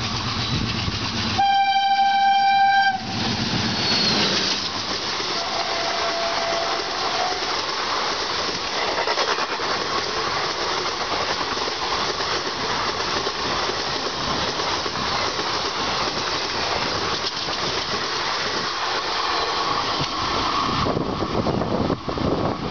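Diesel locomotive horn sounding one long blast, followed by the steady rumble and rattle of a passenger train's coaches running past at speed.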